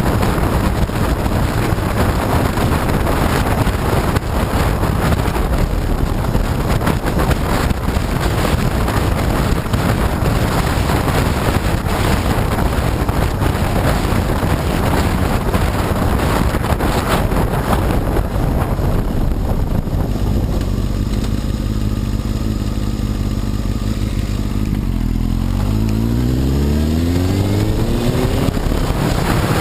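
Honda CBR954RR sport bike's inline-four engine under way, heavily masked by wind rush on the microphone for most of the stretch. Later the wind drops and the engine note comes through steady, then rises in pitch near the end as the bike accelerates.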